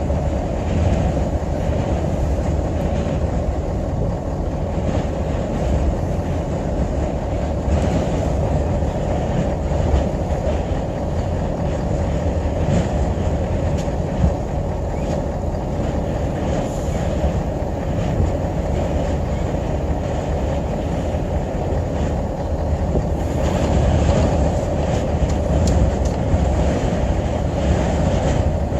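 Strong sandstorm wind making a steady, loud, low rumble with no letup.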